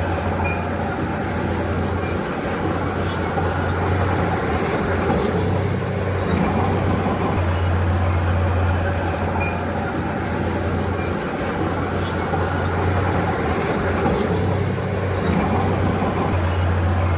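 Heavy diesel engine of a Komatsu D31P crawler bulldozer running at work, its low drone swelling and easing every few seconds as the load changes, with scattered light clicks and clatter over it.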